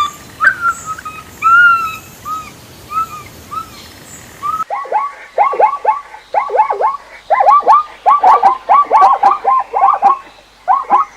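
Birds calling: a few separate whistled notes rising and falling, then, after an abrupt switch about four and a half seconds in, rapid chirps that sweep downward, several a second, in quick irregular runs.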